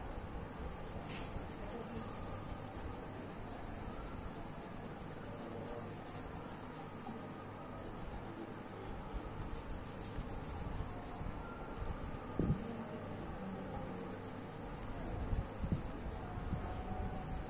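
Quick, steady back-and-forth strokes of a colouring tool rubbing on paper, filling in a drawing, with one light knock about twelve seconds in.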